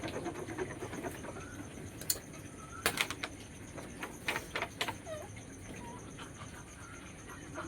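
Faint bird calls, with a few sharp clicks or knocks about two, three and four-and-a-half seconds in.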